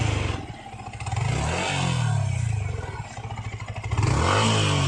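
Yamaha MT-15's 155 cc single-cylinder engine on the move, revving up and easing off twice, rising again near the end. This is the throttle work that the owner says brings out a slight vibration buzz from the instrument cluster and a rattle at the open number plate.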